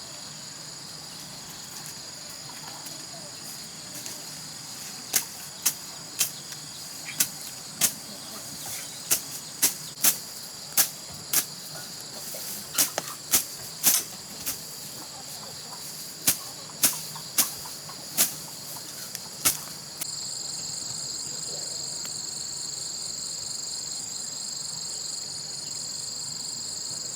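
Insects chirring steadily in high, even tones, with a second, louder pulsing insect song joining about two-thirds of the way in. Over the first half, a series of about twenty sharp, irregular clicks or knocks.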